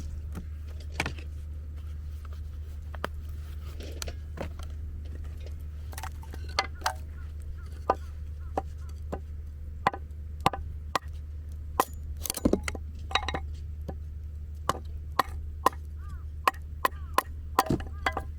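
Sharp wooden knocks and cracks at irregular intervals, coming more often in the second half, over a steady low hum.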